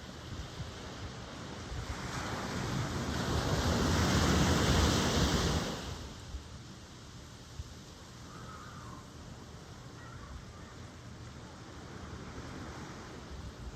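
Ocean surf: a wave builds to a loud rush about halfway through, then drops off suddenly, leaving a softer steady wash of water.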